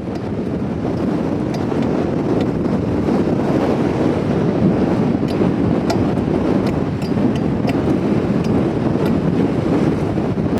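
Strong gusting wind buffeting the microphone in a loud, steady rush, building over the first couple of seconds, with the sea washing over the rock ledge underneath.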